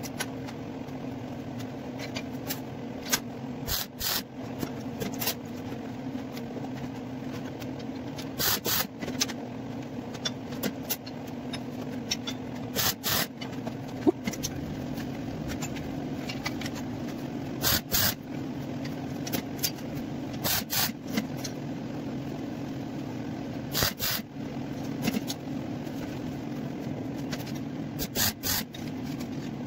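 Short scraping strokes at irregular intervals, over a steady low hum.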